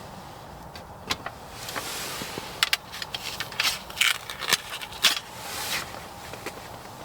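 Hands handling hard objects: a series of sharp clicks and knocks, with two spells of rustling like packaging being moved.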